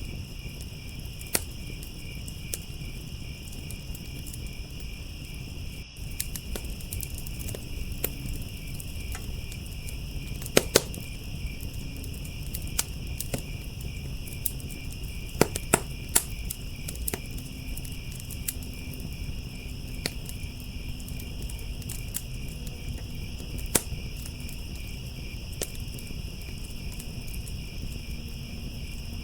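Crickets chirping in a steady, high, continuous pulsing trill over a wood fire in a firepit crackling, with scattered sharp pops; a few pops are much louder than the rest.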